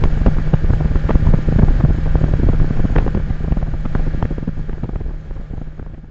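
Rieju Marathon 125 Pro's single-cylinder four-stroke engine running steadily while the bike cruises, with the rush of riding on the microphone. It fades out near the end.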